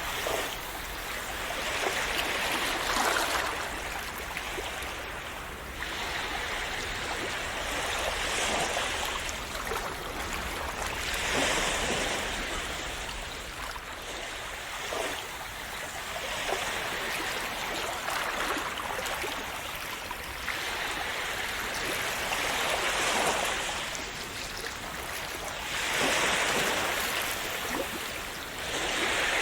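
Gentle sea waves washing in on the shore, a steady hiss of water that swells every few seconds as each wave breaks.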